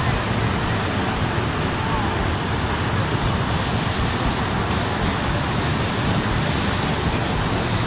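Steady wind and road noise of a motorcycle riding at road speed, with the engine's low rumble underneath.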